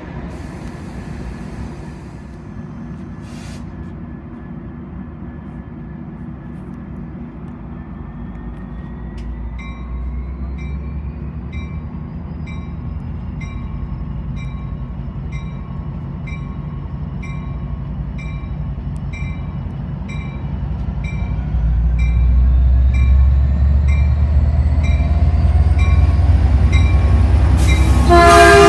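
Diesel-hauled Metrolink commuter train arriving at the platform: a low engine and wheel rumble that grows much louder as the locomotive pulls alongside, with a bell ringing about once a second from about ten seconds in. A loud burst comes with the locomotive close by at the very end.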